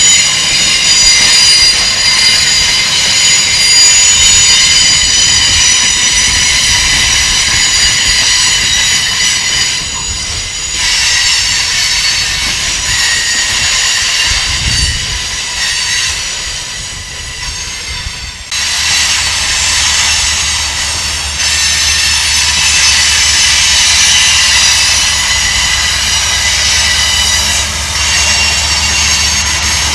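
Freight train cars rolling past, their steel wheels squealing against the rails with many steady high-pitched tones. About two-thirds of the way in, a steady low diesel locomotive rumble joins in and keeps on.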